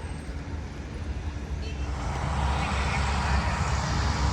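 Jet engines of a C-5 Galaxy transport running at the flight line: a steady low rumble with a faint whine, and a hiss that grows louder about halfway through.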